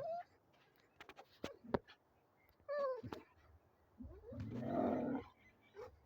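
A pet animal's vocal sounds: a short pitched cry about three seconds in, and a longer rough, noisy call around five seconds, with scattered clicks and knocks between them.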